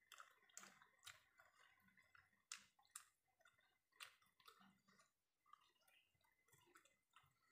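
Faint chewing and lip-smacking of a person eating a mouthful by hand, heard as soft, irregular wet clicks.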